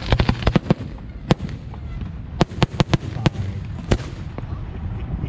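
Fireworks going off: a rapid crackle of sharp reports in the first second, then scattered single sharp bangs over a low background rumble.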